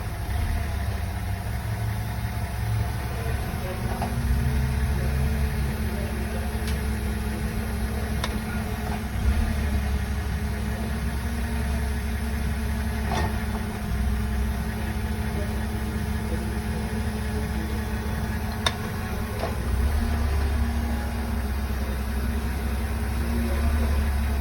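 BMW E60 engine idling with the car standing still, and several sharp knocks at irregular intervals as the gearbox is shifted. The knocks come from a worn propshaft CV joint in the driveline.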